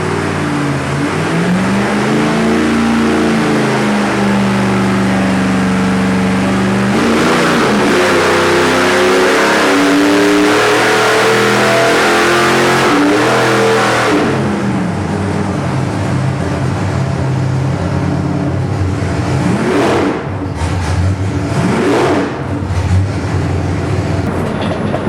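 Nelson Racing Engines nitrous small-block Chevy V8 on an engine dyno doing a low-RPM nitrous-shot pull: after some uneven revving, the engine climbs steadily in pitch under load for about seven seconds. It is let off about fourteen seconds in and drops back to idle, with two quick throttle blips near the end.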